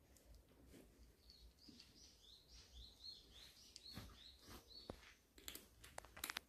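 A songbird chirping faintly: a quick run of about ten short, high, repeated notes, about three a second. Near the end come a few sharp clicks.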